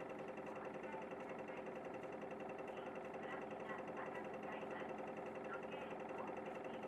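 City bus diesel engine running steadily, heard from inside the cabin, with a fast, even mechanical rattle under a constant hum. Faint voices come through about halfway in.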